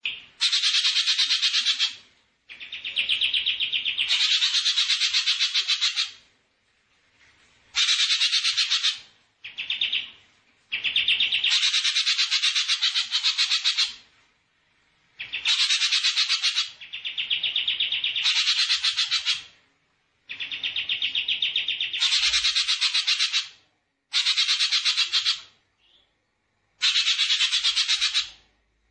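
A songbird singing a series of very fast, buzzy trills, each lasting one to three seconds with short pauses between them. Some trills jump to a higher pitch partway through.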